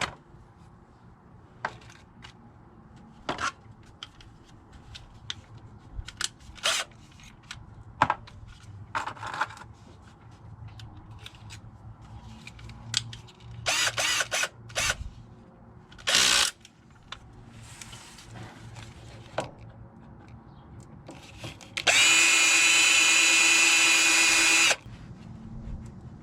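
Scattered clicks, knocks and brief rattles of tools and parts being handled, then, near the end, a power drill runs steadily at one pitch for about three seconds and stops abruptly.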